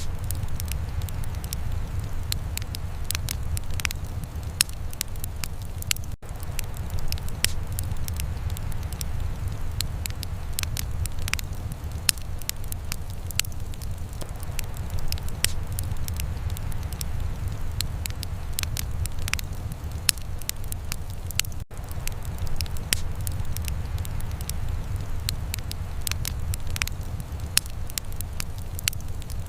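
Wood fire in a fireplace crackling, with many sharp, irregular pops over a steady low rumble. The sound cuts out for an instant twice.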